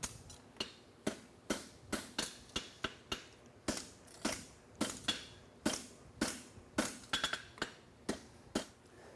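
Forging hammer striking a hot steel horseshoe bar on the anvil, steady blows about two to three a second, often in quick pairs, each with a short metallic ring, as a double-caulkin hind shoe is shaped from 1/2 by 1 inch bar stock.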